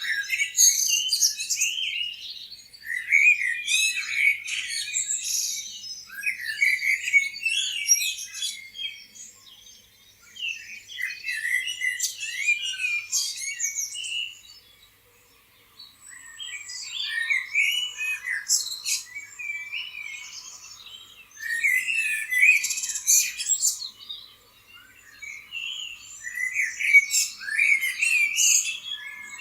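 Several small songbirds chirping and twittering in quick, overlapping bursts, with brief lulls between the flurries.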